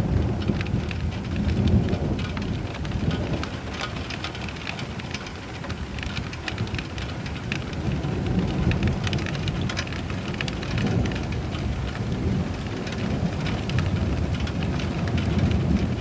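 Steady rain with dense drops hitting a surface, under low thunder rumbling that swells and fades several times.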